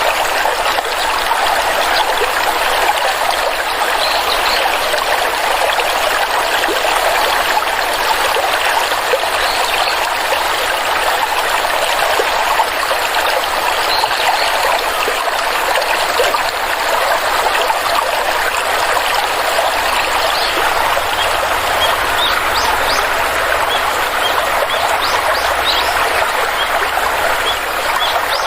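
Stream water flowing steadily, a constant rushing and trickling. A scatter of short, faint, high chirps comes in toward the end.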